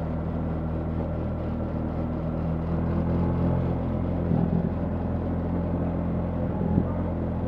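BMW R 1300 GS boxer-twin engine running at a steady cruising pace, its note holding even, with wind and road noise underneath.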